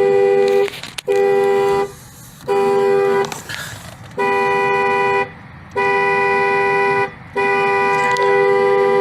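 A car horn honking six times in a row. The first three blasts are short, the next two are longer, and the last is held on.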